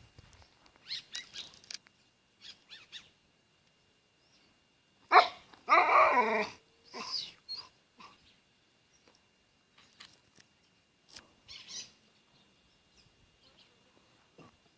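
An animal calls once, loudly, about five seconds in, lasting about a second and a half, amid scattered small faint sounds.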